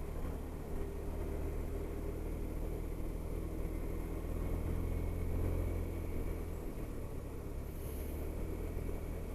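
Honda SH300i scooter's single-cylinder engine running steadily at cruising speed, heard with wind and road noise. The engine note drops slightly about two-thirds of the way through.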